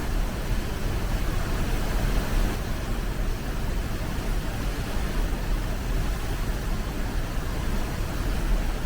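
Steady rush of water from a waterfall or fast stream, an even loud noise with a deep low rumble.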